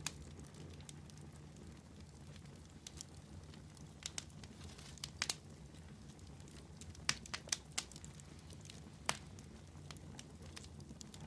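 Wood campfire burning and crackling, with scattered sharp pops over a steady low background; a few pops come in quick clusters about halfway through and again near the end.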